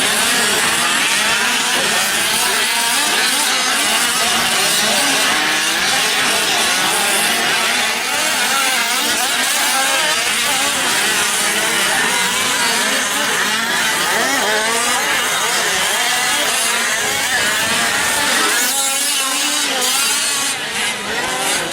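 Several 5th-scale RC trucks' small two-stroke gas engines racing together, their high buzzing notes overlapping and constantly rising and falling as the throttles open and close. The pack thins briefly near the end.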